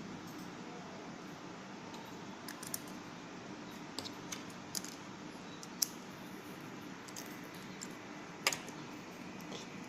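Fidget spinner on an R188 ten-ball bearing spinning with a faint steady whir, with a few small sharp metallic clicks and taps scattered through.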